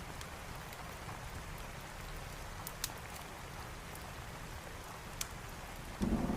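Steady rain hiss with a couple of sharp crackles from a wood fire, then a loud rumble of thunder breaking in near the end.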